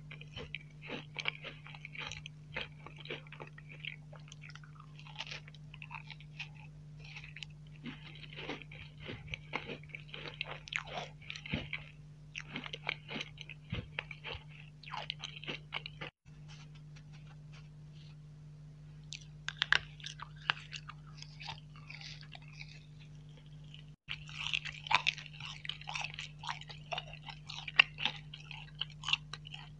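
Close-miked eating of sweets: crisp crunching and wet chewing, starting on a chocolate sandwich cookie, with a pause of about three seconds a little past halfway. A faint steady low hum runs underneath.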